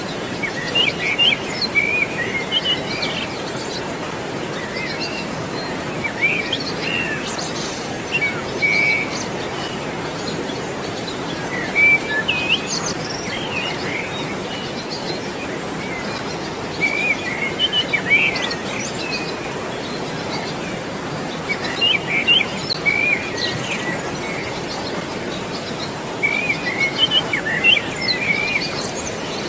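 Birds singing short bursts of chirps every few seconds over the steady rush of flowing water.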